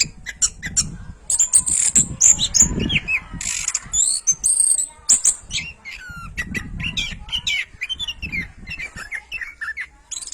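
Orange-headed thrush singing a fast, continuous song of short chirps and whistled notes that sweep up and down in pitch, with a low rumble of background noise under it at times.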